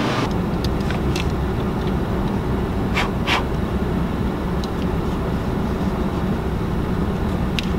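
Steady low rumble inside a car's cabin with the engine running, with two light clicks about three seconds in.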